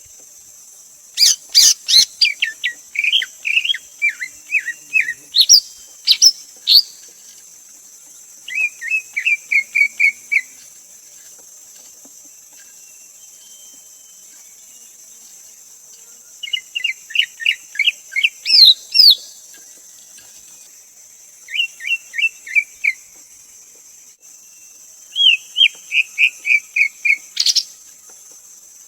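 Greater green leafbird calling: bouts of quick, sliding whistled notes, each bout lasting two or three seconds, repeated about five times with pauses between and mixed with a few sharp high notes. A steady high hiss runs underneath.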